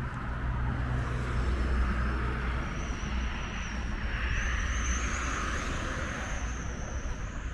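City street traffic: vehicle engines and tyre noise, with wind rumbling on the microphone. A thin high whine comes in about three seconds in and climbs slowly.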